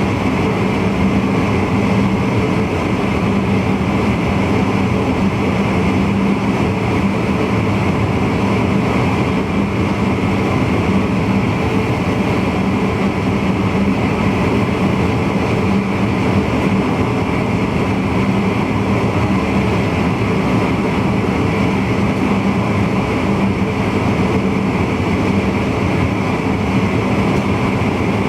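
Steady running noise in the driver's cab of an NS VIRM double-deck electric intercity train on the move: a constant rumble of wheels on rail under an even hum.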